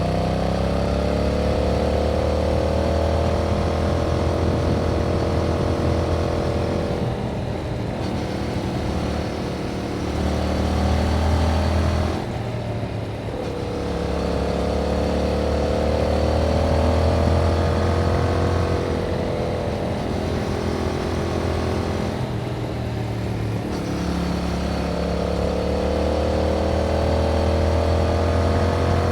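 2021 Yamaha MT-07's 689 cc parallel-twin engine running through its stock exhaust under way. The pitch climbs steadily and then drops back about four times as the rider accelerates and then shifts or eases off the throttle.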